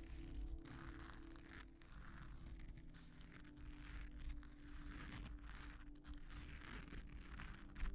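Soft scratching on a sequin-covered vinyl mat, in repeated strokes with short pauses between them, over quiet background music.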